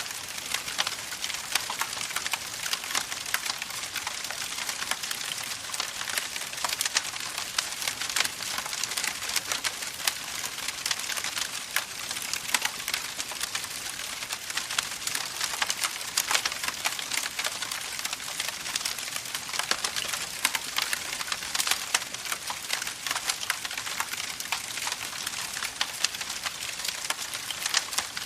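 Campfire burning, with a dense run of small crackles and occasional louder pops from the wood.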